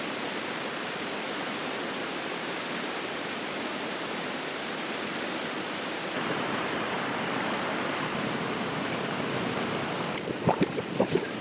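River water flowing steadily over rocks, a continuous rushing that shifts slightly about six seconds in. Near the end, a quick run of sharp knocks or clacks rises above the water.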